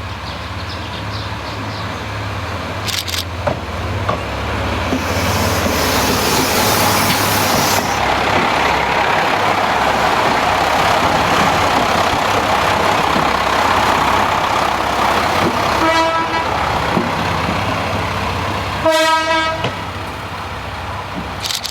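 Diesel railcar's engine running and building up, with a spell of air hiss, then its horn sounding twice: a short toot, and a longer one about three seconds later.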